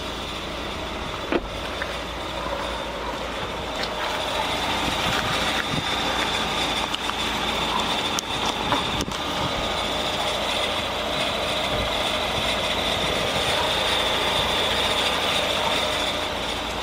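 Lada Vesta AMT idling in neutral with a steady high-pitched whistle from under the hood, a little louder from about four seconds in. The whistle comes from a faulty clutch: it stops when a pedal is pressed, returns after a couple of minutes at idle, and was cured by replacing the clutch.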